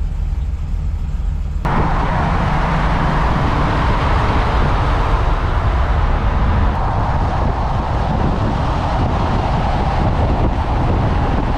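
Car driving on the road: a steady low engine and road rumble, and from about two seconds in, after a sudden change, loud rushing wind and road noise over it.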